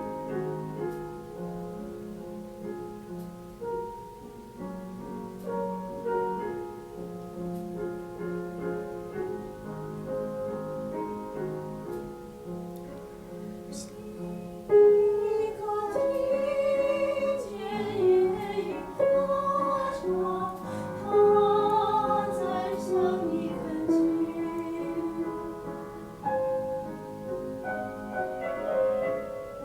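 Piano accompaniment playing alone, then about halfway through a female classical soprano voice comes in, singing sustained notes with vibrato over the piano.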